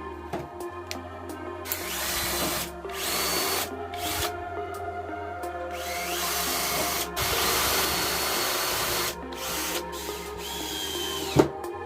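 Electric drill run in several short bursts, its motor whine rising in pitch as it speeds up, then holding and cutting off, over background music.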